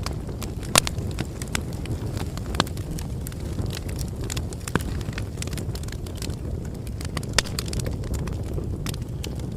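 Bonfire crackling: a steady low rumble of burning wood with frequent sharp pops and snaps, three of them louder, about a second in, at about two and a half seconds and past seven seconds.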